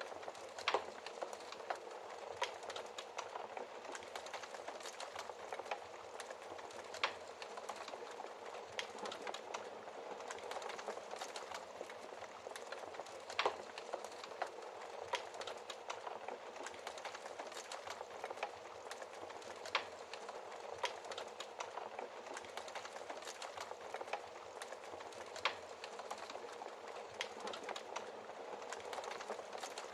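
Fireplace fire crackling: a steady soft hiss full of small crackles, with a sharper, louder pop every few seconds.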